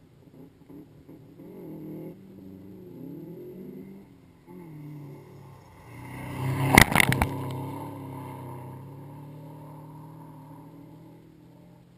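Subaru Impreza rally car driving hard across a dirt field, its engine revving up and down through the gears as it approaches. About halfway through it passes close with a sharp loud burst of crackling noise, then the engine note fades away.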